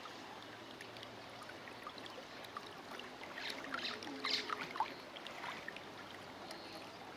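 Floodwater flowing, with scattered small splashes and drips.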